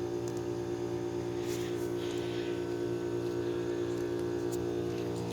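Lennox central air conditioner condensing units running with a steady, even hum.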